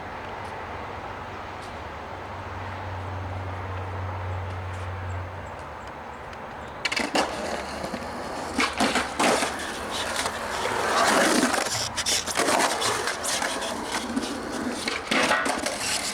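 Skateboard rolling, with sharp clacks and knocks of the board starting about seven seconds in. Before that there is only a steady background hum.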